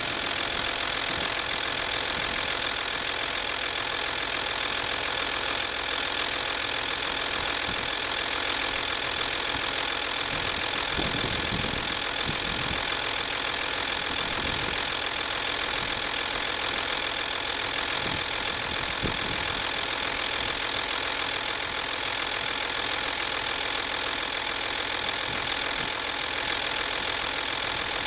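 V6 TDI turbo-diesel engine idling steadily, making the unusual noise its owner calls strange.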